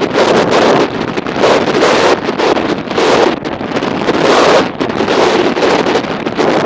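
Strong wind buffeting the microphone of a moving motorcycle, a loud gusty rush that surges and eases about once a second.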